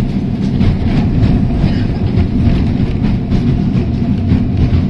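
Heritage electric tram running along its line, heard from inside the car: a steady low rumble with light clicking.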